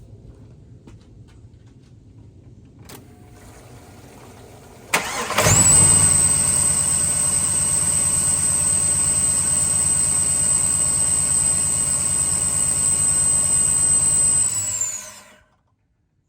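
LS-swapped 1978 Chevrolet Caprice V8 being restarted warm, during a no-start diagnosis: it cranks only briefly and catches almost at once about five seconds in, then runs steadily at idle with a high steady whine over it for about ten seconds before the sound stops abruptly near the end. The quick start means it restarts fine this time.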